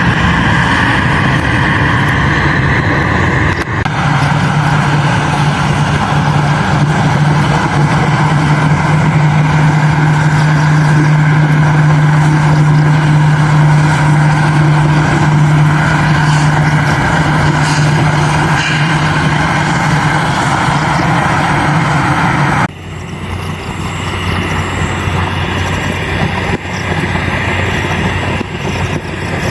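Steady, loud engine noise with a low hum and a higher whine, which cuts off abruptly about three-quarters of the way through and gives way to a different, lower steady engine hum.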